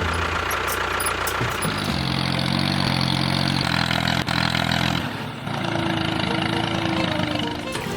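A small motor or engine running steadily, its pitch shifting a couple of times.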